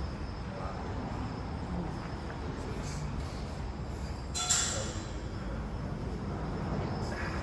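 Steady low gym rumble with a single sharp clank about four and a half seconds in.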